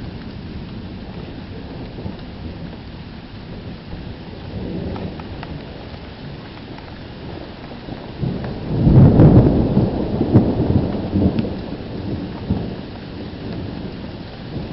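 Steady heavy rain with thunder: a faint rumble about four and a half seconds in, then a loud rolling thunderclap about eight seconds in that rumbles on and dies away over the next few seconds.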